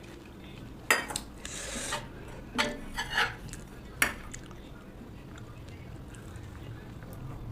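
Cutlery and dishes clinking: two sharp clinks about three seconds apart, with a short scrape and softer knocks of utensils against a plate between them.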